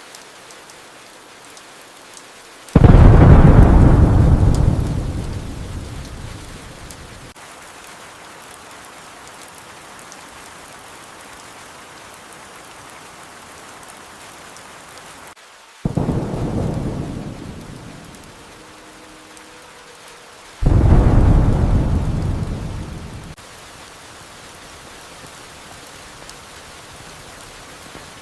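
Steady rain with three rolls of thunder. Each starts suddenly, deep and loud, and fades away over a few seconds: the loudest about three seconds in, a smaller one about sixteen seconds in and another about twenty-one seconds in.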